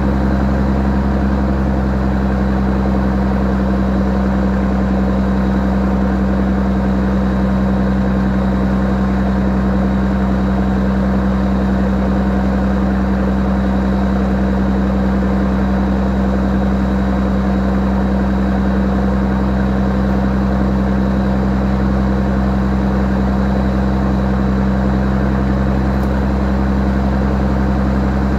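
Scania 111S's six-cylinder diesel engine idling steadily with a deep, even note, warming up after its first cold start of the day.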